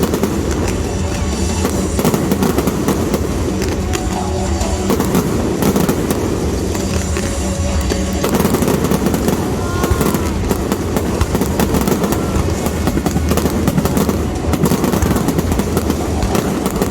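Fireworks bursting in a fast, continuous volley of bangs and crackles, over music playing through loudspeakers.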